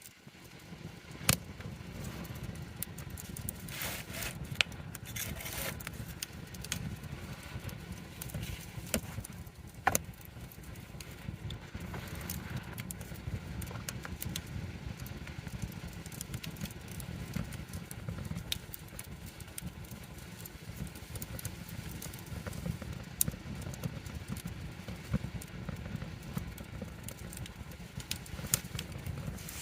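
Wood campfire burning, a steady low rumble of flame with frequent sharp crackles and pops from the burning wood, the loudest pops about a second in, near five seconds and at ten seconds.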